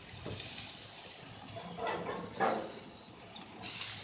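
Boneless chicken breasts sizzling on a hot grill, with a sudden louder burst of sizzle near the end.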